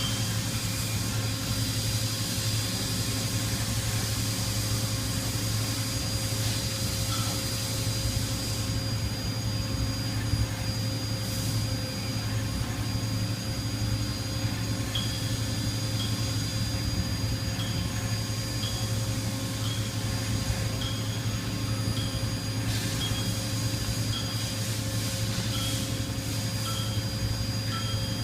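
Toyoda CNC horizontal milling machine running: a steady low hum with a constant high whine, hissing during the first several seconds and again near the end, and short high chirps repeating through the second half.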